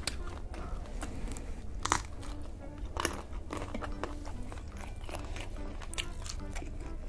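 Close-miked eating of butter garlic shrimp: wet chewing and biting with small mouth clicks, and two sharper crunches about two and three seconds in.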